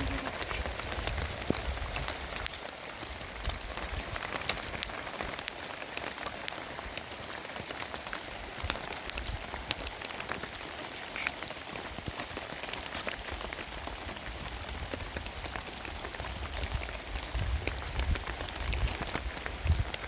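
Heavy rain falling steadily, with many sharp individual drop hits standing out from the hiss.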